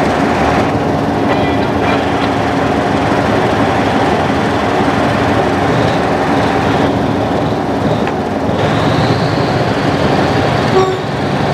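Train running, a steady rail and engine noise with a few constant tones through it and a short sharp knock near the end.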